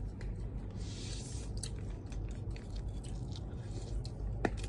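Close-up chewing of food, wet and squishy, with many small scattered mouth clicks and a sharper click near the end.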